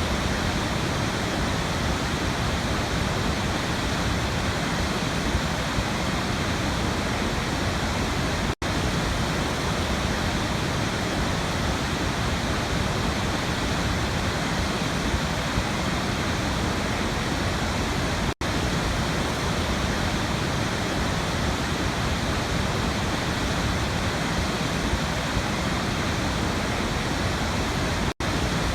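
Waterfall rushing in a steady, dense roar of falling water, broken three times by a split-second dropout about every ten seconds.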